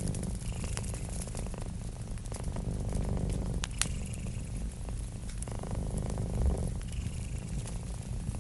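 A domestic cat purring steadily in slow swells, one swell per breath, with the snaps and pops of a crackling wood fire over it. A single dull low thump comes about six and a half seconds in.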